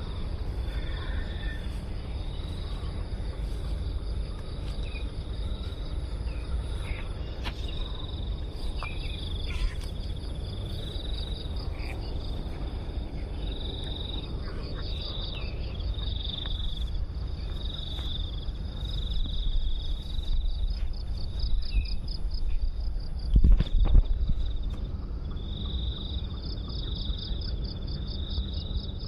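Insects chirping in a steady, pulsing chorus over a low rumble on the microphone, with one loud thump about two-thirds of the way through.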